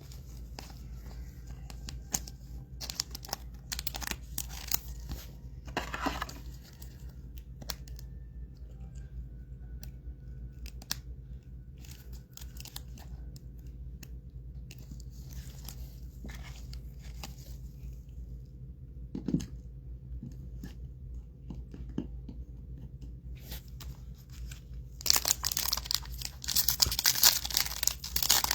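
Trading cards being handled, with scattered light clicks and rustles, then from about 25 seconds in a loud crinkling and tearing as the wrapper of a card pack is ripped open.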